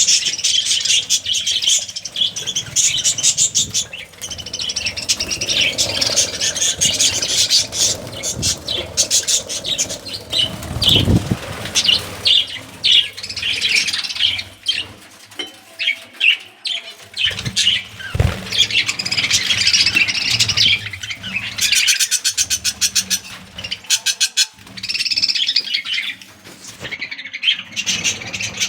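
A colony of budgerigars chattering and chirping continuously, with bursts of wing-flapping. Two low bumps break through, about a third of the way in and again past the middle.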